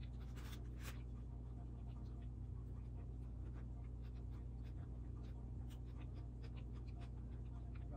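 Close-up mouth sounds of someone chewing a mouthful of burger: faint scattered wet clicks and smacks, a couple of sharper ones in the first second, over a steady low hum.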